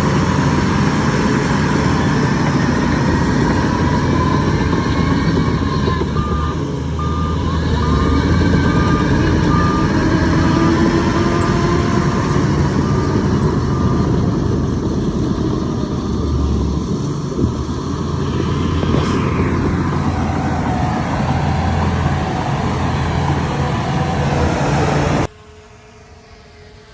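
Heavy diesel machinery running under load in a steady, loud drone. Partway through, a reversing alarm beeps at about one beep a second for several seconds. Near the end the sound drops away abruptly.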